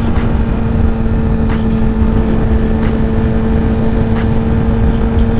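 2021 Honda CBR1000RR sport bike's engine running at a steady speed under way, a constant drone with heavy wind rumble over the helmet microphone. Faint clicks come about every second and a half.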